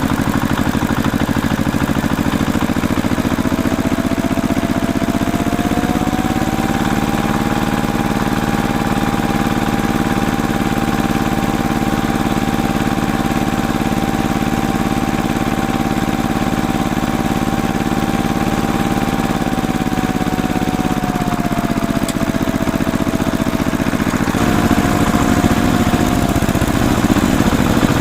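A motor running steadily, its whine rising in pitch about six seconds in, holding, and dropping back about twenty-one seconds in, with another shift in the sound a few seconds later.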